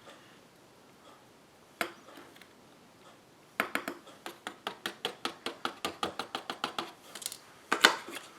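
White embossing powder being applied to a stamped card panel and the excess tapped off: a single light click, then from about three and a half seconds in a quick run of light rattling taps, about seven a second, with a few louder taps near the end.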